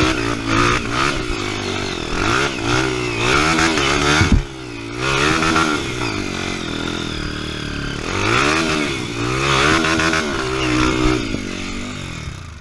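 Off-road trail motorcycle engine revved up and down again and again in short blips of the throttle, with a sharp knock about four seconds in.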